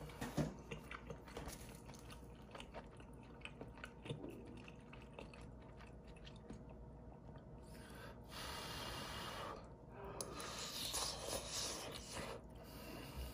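Close-miked chewing of a dumpling and instant ramen, with soft wet mouth sounds and small clicks. The sounds grow louder and noisier from about eight seconds in.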